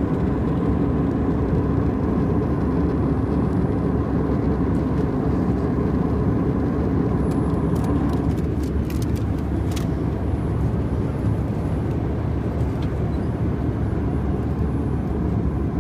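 Cabin noise inside an Airbus A320-211 in flight: a steady drone from its CFM56 engines and the airflow over the fuselage. A faint higher hum drops away about halfway through.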